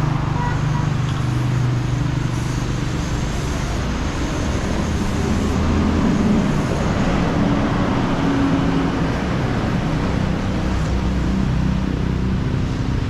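Road traffic: passing vehicle engines making a steady noise, with low engine tones shifting in pitch.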